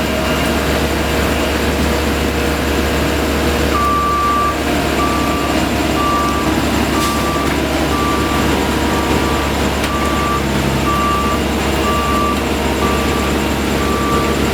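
Reversing alarm on road-paving machinery, starting a few seconds in and beeping about once a second over the steady running of heavy machine engines.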